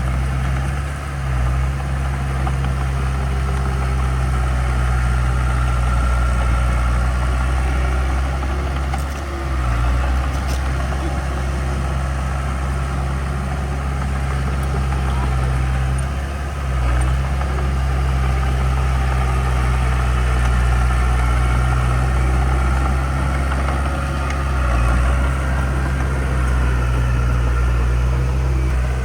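Heavy diesel engine of earthmoving equipment running steadily with a deep, low hum. Its loudness dips briefly about every seven or eight seconds as the load changes.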